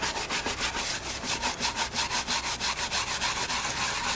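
A stiff brush scrubbing a tire with quick back-and-forth strokes, about seven a second, in an even rhythm.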